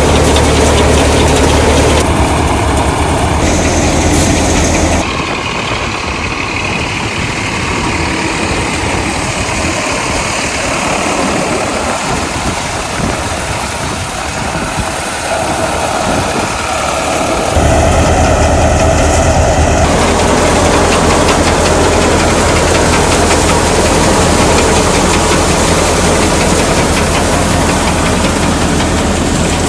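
Tractor engine and grain thresher running steadily, with a strong low hum. The sound changes abruptly a few times: it goes quieter and thinner about five seconds in, and the loud low running returns about eighteen seconds in.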